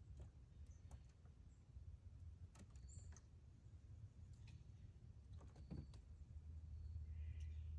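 Faint, sparse clicks and cracks of pecan and peanut shells being handled and cracked by squirrels, over a low steady hum.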